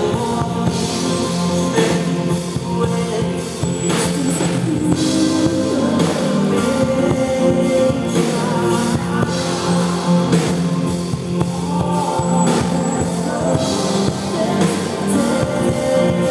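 A live rock band playing a song, with drum kit and guitar.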